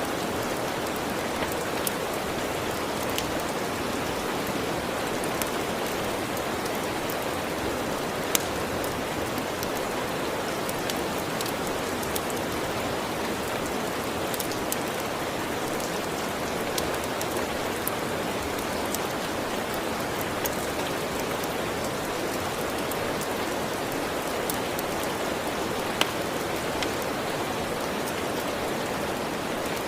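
Steady, dense rain with scattered sharp clicks through it, the loudest about 8 seconds in and again about 26 seconds in.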